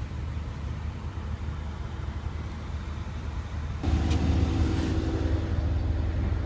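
Mercedes-Benz S63 AMG's 5.5-litre twin-turbo V8 idling, a steady low rumble that grows louder and gains a steady hum about four seconds in.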